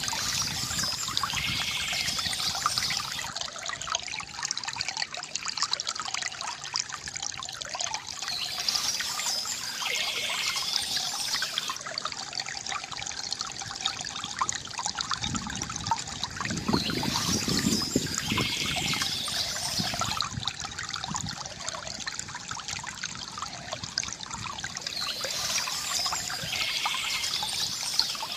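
Water trickling and gurgling steadily from a bamboo fountain. A brighter, higher sound recurs about every eight seconds, and there is a deeper gurgle a little past the middle.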